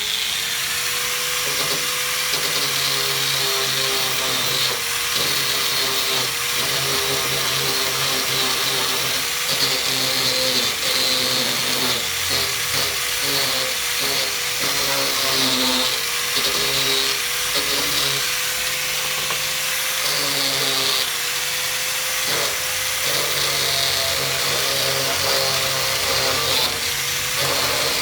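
Electric hand grinder running steadily, scouring rust off a steel amplifier cover; its whine dips slightly in pitch now and then as it bears on the metal.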